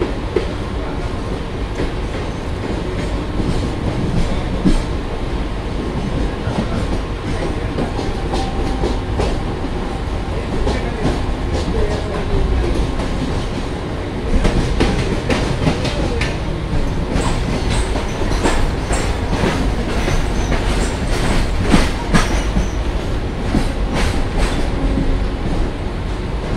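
Train wheels running over the track, heard from aboard the moving train: a steady rumble with sharp clattering clicks as the wheels cross rail joints and points. The clicks come thickest in the second half.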